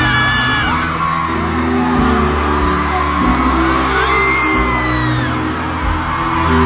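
Live concert music with a heavy, sustained bass playing over the venue's sound system, while fans in the crowd scream and whoop in high voices over it.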